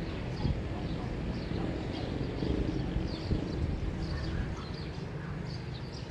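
Morning neighborhood ambience: many small birds chirping in short, scattered calls over a steady low rumble.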